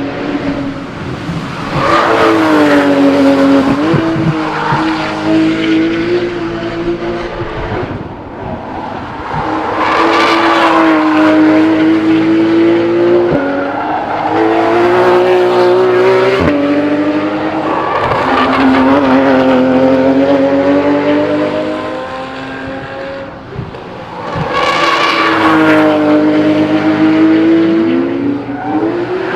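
Porsche 911 GT3 RS flat-six engine at high revs, its pitch rising and falling through gear changes. It swells loud four times, as if the car passes again and again.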